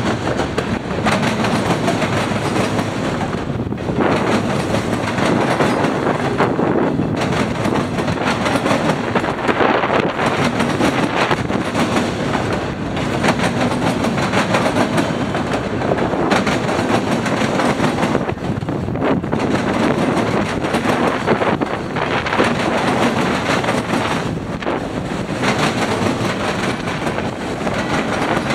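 Freight train cars rolling past at close range, a continuous loud rumble with the wheels clacking over rail joints.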